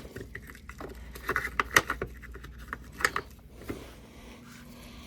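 Metal hand tools clinking and scraping against a car battery terminal as a 10 mm socket or wrench is fitted to the terminal nut: a few scattered sharp clinks, loudest in the first two seconds.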